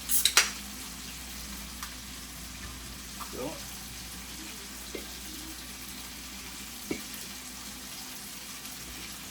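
Food frying in a pan with a steady sizzle, with a cluster of sharp clicks just at the start and a single click now and then, typical of a utensil stirring against the pan.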